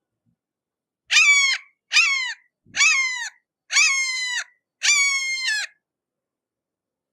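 Hawk giving a series of five harsh screaming calls about a second apart, each call dropping in pitch at its end.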